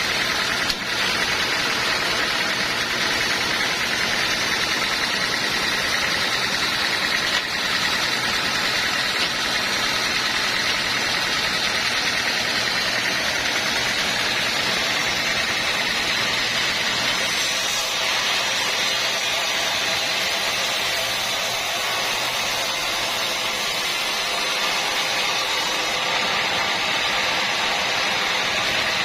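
Sawmill machinery running steadily: a constant mechanical hum and hiss with no distinct cutting strokes, and a faint click or two.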